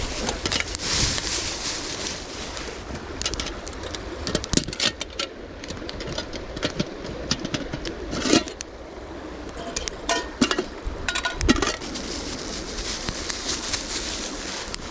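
Steady rushing of a river, with a scattered series of sharp clicks, clinks and knocks from camp gear being handled, loudest around the middle.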